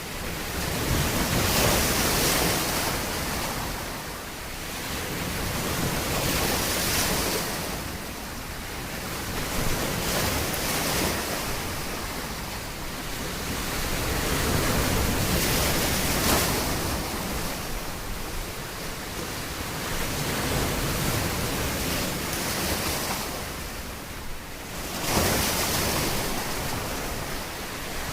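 Surf breaking on a beach, each wave swelling and washing back every four to five seconds.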